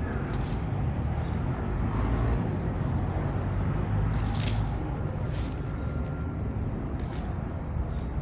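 Short, high, thin bird calls, about five in a few seconds at uneven spacing, over a steady low rumble.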